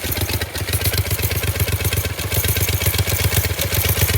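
A 212cc single-cylinder four-stroke minibike engine running at idle, with a brief stumble about half a second in. It is running rough after a hard start, a fault the owner wonders is down to a loose spark plug.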